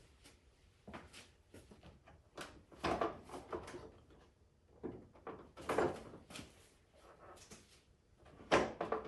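Cub Cadet snowblower's recoil starter pulled a few times, each pull a short rattling zip, with the engine not catching. The owner suspects no fuel is reaching the cylinder.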